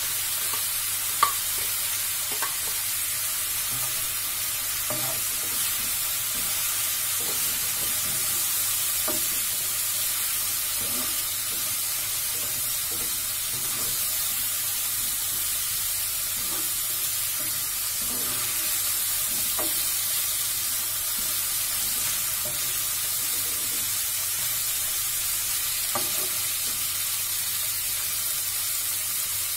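Chicken pieces and onion sizzling steadily in a nonstick frying pan, with a plastic spatula scraping and tapping against the pan as they are stirred. There is a sharp click about a second in.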